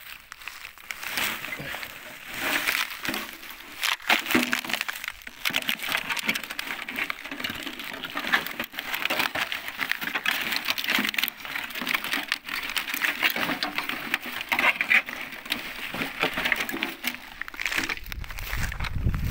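Rustling and crackling of dry brush and debris being stepped through and handled while picking up scrap, with many sharp clicks throughout. A low rumble comes in near the end.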